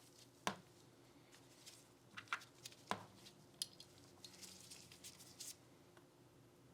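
Small sharp clicks and taps of Glock pistol parts being handled, the loudest about half a second in, then a short stretch of light scraping and ticking between about four and five and a half seconds in.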